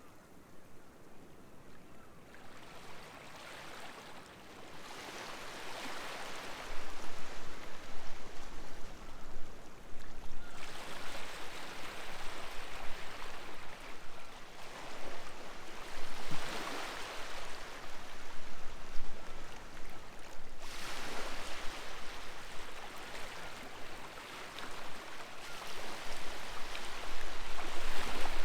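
Sea waves washing in on a beach, one surge of surf about every five seconds, faint at first and louder from about seven seconds in.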